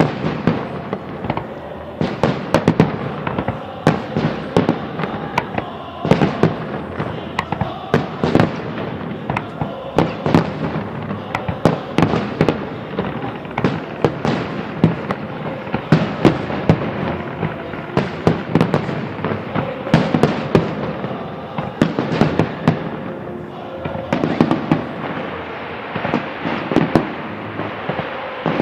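A fireworks salute: shells bursting in a dense, rapid run of sharp bangs and crackles, several a second, with short lulls about two seconds in and again near the end.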